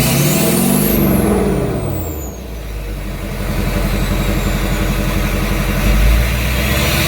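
2007 Duramax LBZ 6.6-litre V8 turbo-diesel revved once, its pitch rising for about a second and falling back, with the turbo whistling up and down alongside. It then settles to a steady idle.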